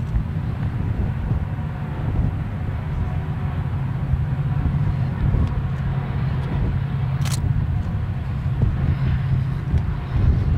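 Freight train passing: a steady low rumble, with a sharp click about seven seconds in.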